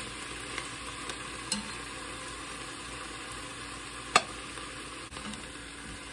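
Chicken pieces sizzling as they brown in hot oil with onion, with a few sharp clicks of a utensil against the pan while stirring, the loudest about four seconds in.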